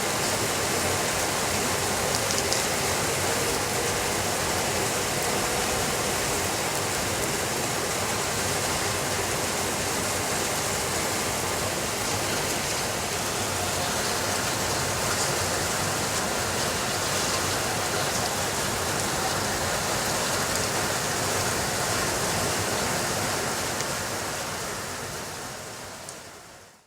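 Heavy rain falling steadily as a dense, even hiss. It fades out over the last few seconds.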